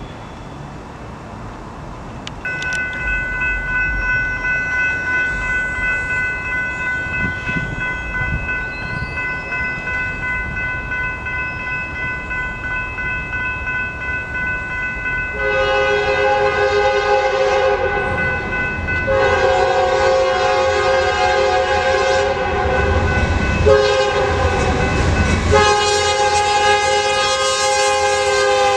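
A grade-crossing warning bell starts ringing a couple of seconds in. About halfway through, a BNSF freight locomotive's horn sounds several long blasts over a growing engine rumble, and its pitch drops near the end as the locomotive passes.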